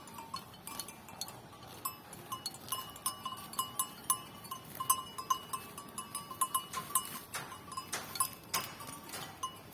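Murrah buffalo cropping and chewing grass, a run of irregular crisp crunches and tearing clicks, with short high clinks repeating throughout.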